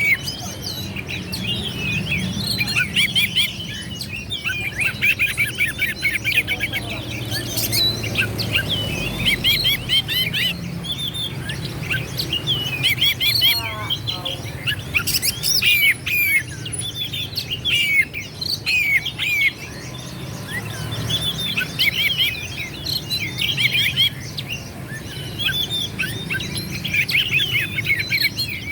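Oriental magpie-robin singing a fast, continuous song of varied chirps, trills and whistles, with a short run of falling lower notes about halfway through. This is the intense, combative song kept-bird fanciers use to provoke other magpie-robins into answering. A faint low hum runs underneath.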